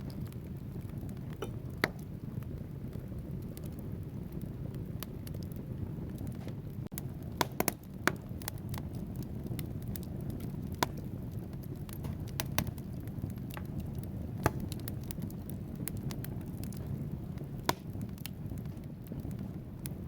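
Wood fire burning in a fireplace: a steady low rush of flames with irregular sharp crackles and pops from the logs, a few of them louder, including a quick cluster about seven to eight seconds in.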